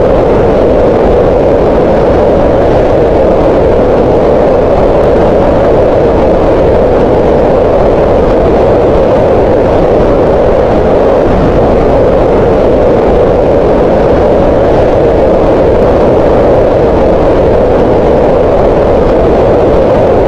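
Green noise: a steady, unbroken hiss-like rush with its energy centred in the mid-range around 500 Hz, softer in the deep lows and the highs.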